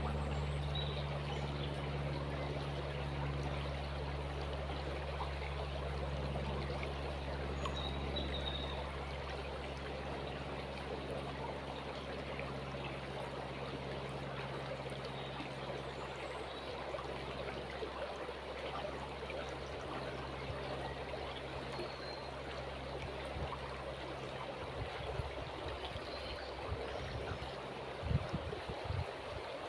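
A river flowing with a steady rushing and trickling, a few faint short bird chirps above it. A low steady hum fades out over the first half, and low buffeting bursts come in near the end.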